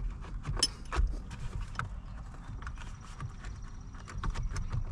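Scattered light clicks and knocks of a 2020 Toyota Tundra's driver airbag module being tugged at in the steering wheel, a few sharper ones in the first second or two, then many small ticks; the airbag is still held in place and does not come free.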